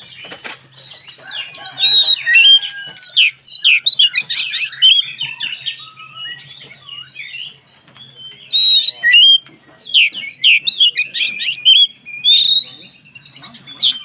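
Oriental magpie-robin (kacer) in vigorous full song: a fast, varied run of high whistled and chirping notes. It comes in two loud bursts, from about two to five seconds in and again from about eight and a half to twelve and a half seconds in, with quieter notes between.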